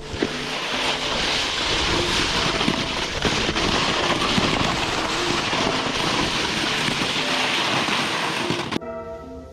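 A snowboard sliding and scraping over snow, with wind rushing across the action camera's microphone during a downhill run; the noise stops abruptly near the end.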